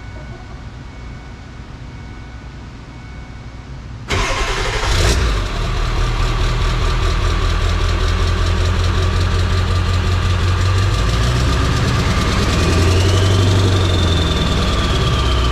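Ford 7.3 PowerStroke turbo-diesel V8 firing up about four seconds in through a new 4-inch MBRP exhaust, then running steadily at idle. Near the end a light rev brings up a rising then falling whistle, a little whistle from the exhaust setup.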